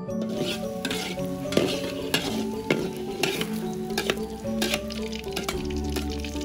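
Cubes of tempeh sizzling in hot oil in a steel wok, with a metal spatula and a perforated ladle scraping and clicking against the pan as the tempeh is lifted out. The sizzling begins a moment in.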